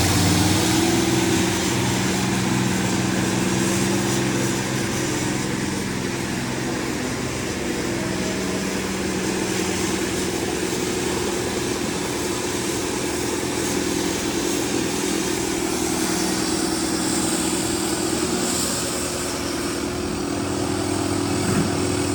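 Diesel tractor engines running steadily under load in a tractor tug-of-war, with a held, unchanging engine note.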